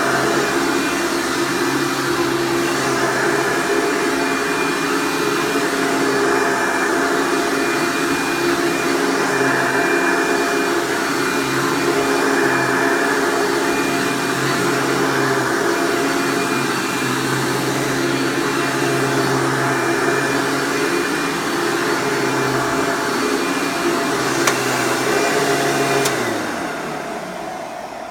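Hoover Breathe Easy U5270-930 upright vacuum (1999), a direct-air machine with a 7.3 amp motor, running steadily; it is pretty noisy. Near the end it is switched off and the motor winds down.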